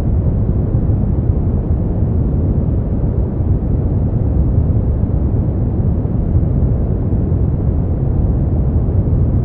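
Brown noise: a steady, deep rushing noise with its weight in the low end, thinning out toward the top and with nothing high.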